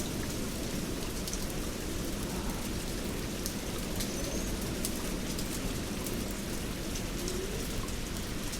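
Heavy rain falling steadily, a dense hiss with a deep rumbling undertone and scattered sharp ticks of individual drops.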